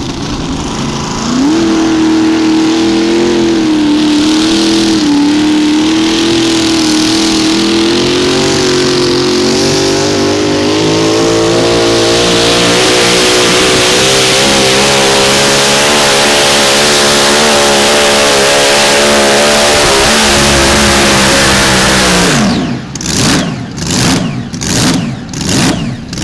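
Modified mini pulling tractor engine at full throttle under load during a pull, with a high, steady pitch that climbs slowly. Near the end the pitch drops sharply as the throttle comes off, and the engine then rises and falls about twice a second.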